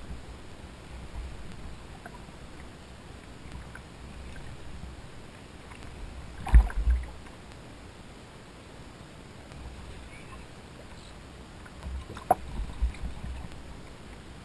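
Water moving against a fishing kayak's hull, a steady low wash, with two short thumps, about six seconds in and again about twelve seconds in.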